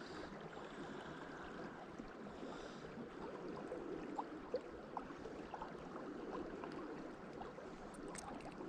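Steady rush of a high, fast-flowing river, with a few faint clicks about halfway through.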